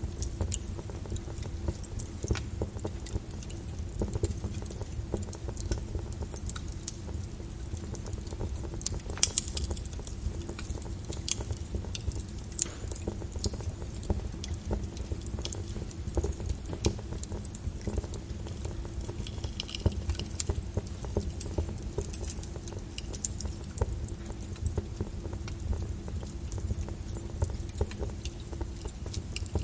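Wood fire in a fireplace crackling, with irregular sharp pops over a low steady rumble of the burning; one louder pop about nine seconds in.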